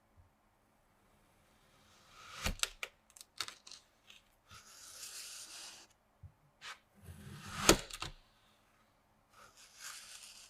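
Kinetic sand being cut and scraped with a knife: three spells of soft gritty hissing strokes with sharp clicks among them, the loudest click about three-quarters of the way through.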